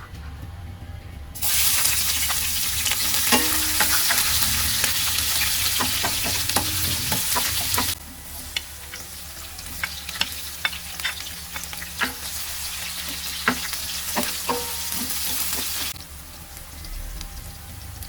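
Food sizzling as it fries in a pan and is stirred, with a utensil clicking and scraping against the pan. The sizzle starts suddenly a second or so in, drops quieter about eight seconds in, and drops again near the end.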